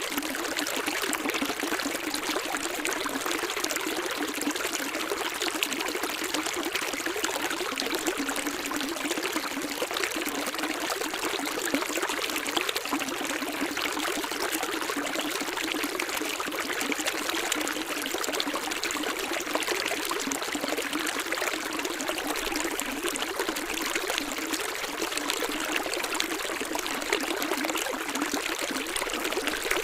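Running water, as of a small stream, flowing steadily with an even, unbroken rush and little deep rumble.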